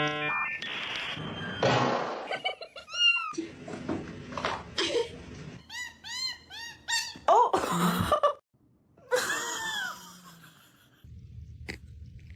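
Cats meowing: a quick run of short, arching meows about halfway through, then a couple of longer meows. A brief snatch of music plays at the very start.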